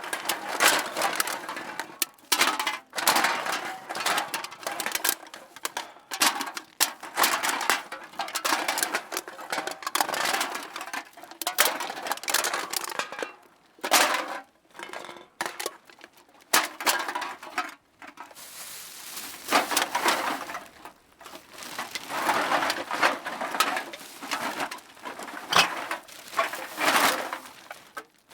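Cans being dropped into a bag, clattering against one another in quick, irregular runs with a few brief pauses.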